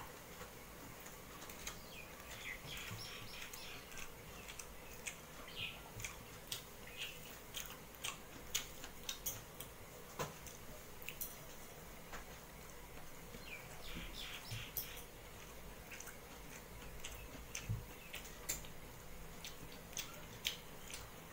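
Close-up chewing of a mouthful of rice and vegetables, with wet mouth clicks and smacks coming irregularly, and fingers mixing rice on a steel plate.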